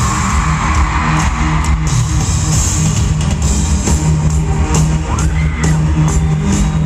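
Live pop-rock band playing loudly over an arena sound system with no vocals: electric guitar, bass and a steady drumbeat.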